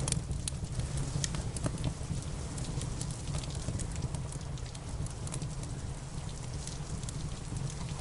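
Wood fire crackling, with frequent sharp pops and snaps over a steady low rumble, mixed with a steady patter of rain.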